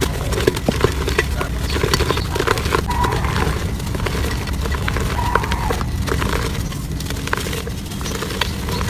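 Clumps of soft dirt crumbling, a dense run of small crackles and crunches over a steady low rumble.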